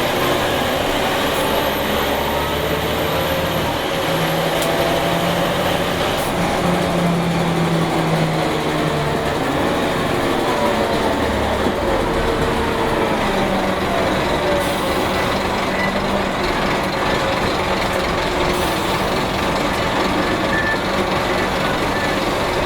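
Scania DC9 five-cylinder 8.9-litre turbo diesel bus engine running under way, its pitch rising and dropping several times as the ZF six-speed automatic works through the gears.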